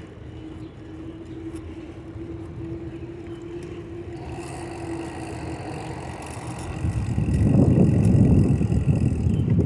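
A steady hum for the first few seconds, then gusts of wind rumbling on the microphone from about seven seconds in, the loudest part, while riding a bicycle outdoors.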